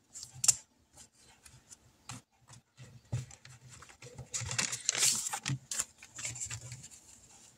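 Paper bills being handled and counted out, rustling and crinkling with small taps and clicks, busiest from about four to six and a half seconds in.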